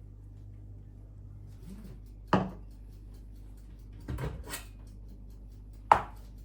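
Household handling sounds over a low steady hum: a knock about two seconds in, a short rattling clatter around four seconds, and a sharp click near six seconds, like a cupboard door or drawer being opened and shut.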